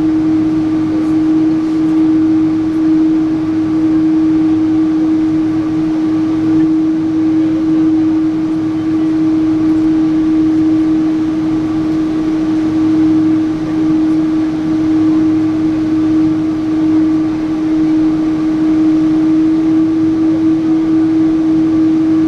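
Cabin noise of a Boeing 777-300 airliner in flight: the steady rush of engines and airflow, with one constant humming tone that does not change.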